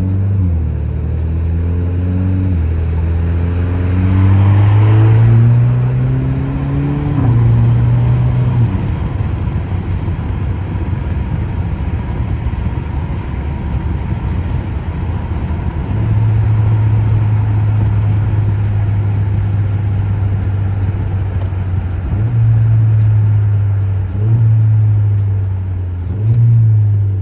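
2017 Alfa Romeo Giulia's turbocharged four-cylinder with a muffler-delete exhaust, accelerating through manually selected gears. The engine pitch climbs and drops back at each upshift over the first several seconds, then steadies through a stretch of cruising with road noise, and rises and falls through a few more quick shifts near the end.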